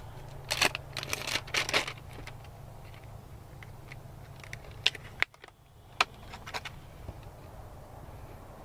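Close handling of fishing tackle while rigging a soft-plastic bait: rustling for about a second and a half, then several sharp clicks, over a steady low hum.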